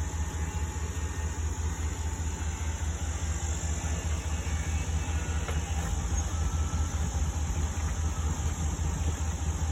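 A vehicle engine idling: a steady, even low rumble.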